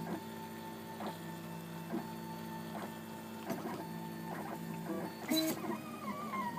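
Stepper motors of a RepRap Prusa Mendel 3D printer whining with steady pitched tones as the print head lays lattice infill, the tone breaking and changing about once a second at each change of direction. A brief sharp click about five seconds in.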